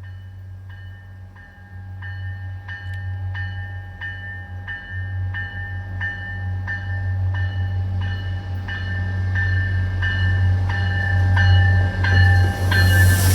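A warning bell strikes about one and a half times a second while the low hum of an approaching train grows steadily louder. A rushing noise builds near the end as the train draws in.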